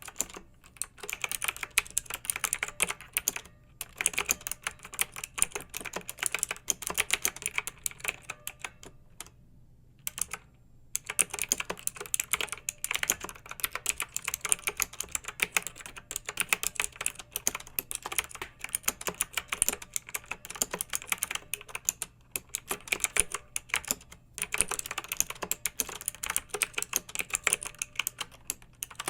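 Typing on a mechanical keyboard with clicky switches: fast runs of keystrokes broken by short pauses, with one longer pause of about a second and a half roughly a third of the way through.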